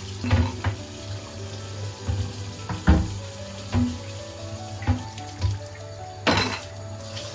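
Water running from a tap into a sink, with a scatter of short knocks and clatters from things being handled in it and one longer splashy burst about six seconds in. Soft background music plays throughout.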